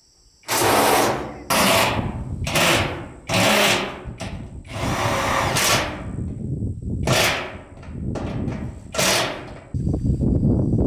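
A work tool run in about seven short, loud bursts, each lasting half a second to a second, with one longer run near the middle.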